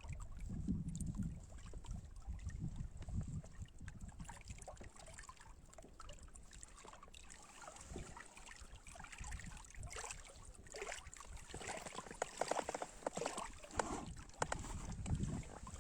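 Low wind rumble on the microphone over water sounds, with a run of small clicks and taps about ten to fourteen seconds in.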